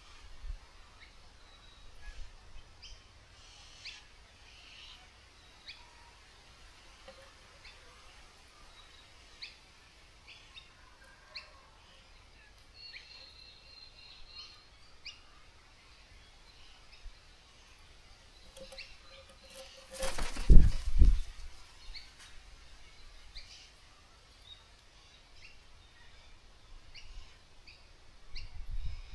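Birds calling with short high chirps scattered throughout. About twenty seconds in comes a loud, brief flurry of noise with a low rumble.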